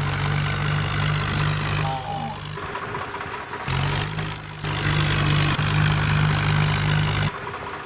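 Ford tractor engine running steadily at a low, even pitch. The sound breaks off abruptly twice.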